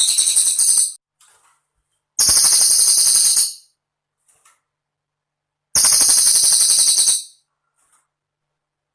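Cililin bird song: loud, rapid, high buzzy trills in bursts of about a second and a half, repeating every three and a half seconds or so. One trill ends just after the start, and two more follow about two and six seconds in.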